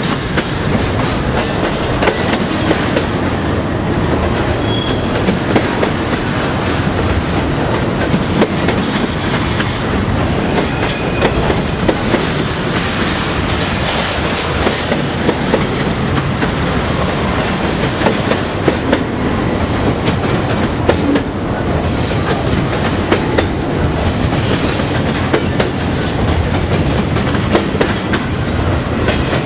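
Double-stack intermodal freight cars rolling past: a loud, steady rumble of steel wheels on rail with rhythmic clickety-clack over the rail joints, and a few brief, faint wheel squeals.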